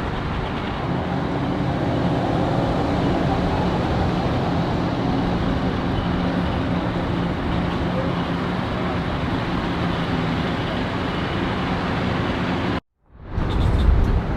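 Steady engine hum under a dense wash of outdoor noise. It cuts out abruptly for a moment near the end and comes back louder.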